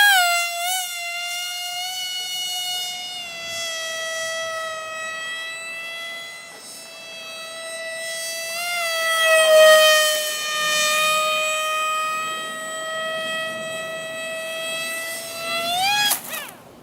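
Small electric motor and propeller running with a high, steady whine, its pitch dipping slightly midway. Near the end the pitch rises briefly, then the sound cuts off suddenly.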